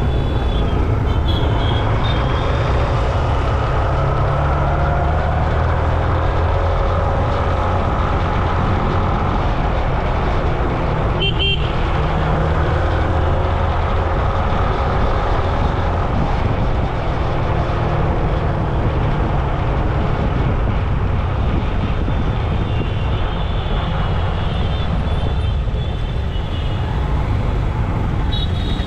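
Steady road traffic noise with a deep low rumble, and a short horn toot about eleven seconds in.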